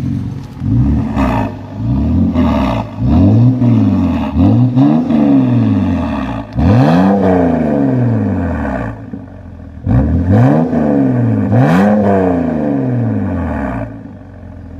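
BMW 330xi inline-six with its muffler deleted, free-revved in a series of quick blips, the engine note rising and falling each time, with a short lull about two-thirds of the way through.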